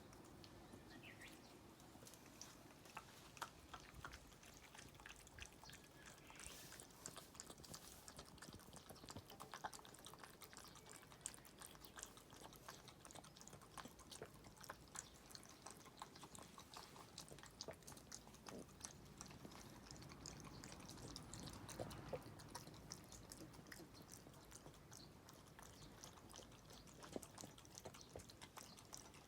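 Shiba Inu lapping up corn soup from a dish: faint, irregular wet licking clicks.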